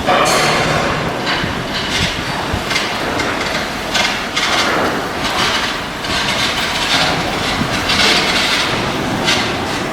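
Loud, continuous shipyard metalworking noise: a steady clatter and hiss with irregular surges of harsh metallic noise every second or so.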